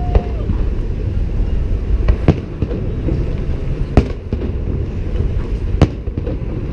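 Fireworks salute: four sharp bangs, about two seconds apart, over a steady low rumble.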